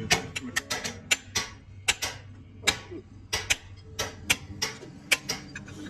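Hammer blows on steel in a quick, irregular series, roughly three sharp ringing strikes a second, over a steady low hum.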